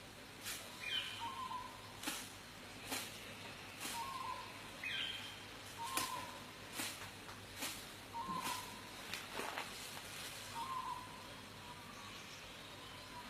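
Birds calling: a short low call repeated every second or so, with an occasional higher call that slides downward. Sharp clicks sound irregularly throughout, several of them louder than the calls.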